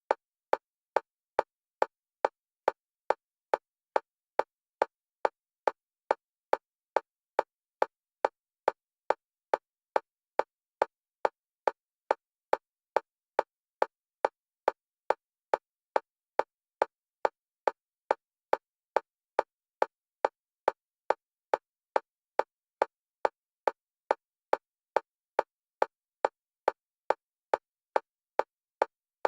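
Fast, steady metronome clicks, a little over two a second, each a short pitched tick with silence between, alternating between the left and right stereo channels for EMDR bilateral stimulation.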